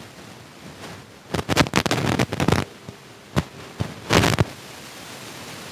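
Close-miked chewing of fried street food: a quick run of crunches starting about a second in, then a few more single crunches and a short louder one near the end, over a steady low hiss.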